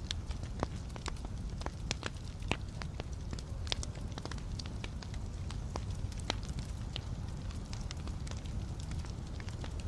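Wood fire burning in a fireplace: sharp, irregular crackles and pops over a steady low rumble of flames, with the pops coming more often in the first half.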